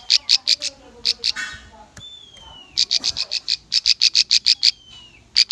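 Bar-winged prinia (ciblek) song: runs of loud, sharp, high notes, about six a second, in bursts of around a second with short pauses. Thin falling whistles sound between the bursts.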